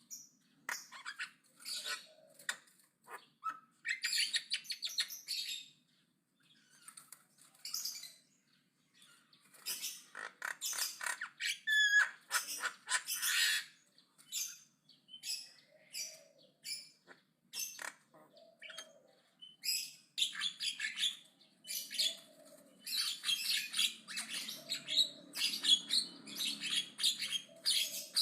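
Javan myna chattering in short bursts of scratchy calls separated by brief pauses, with a short clear whistle about twelve seconds in.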